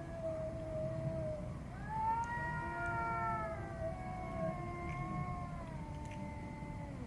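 Cats yowling in long, drawn-out, overlapping calls. One voice rises sharply about two seconds in and then sinks slowly over the next few seconds, while a lower, steadier yowl carries on beneath it.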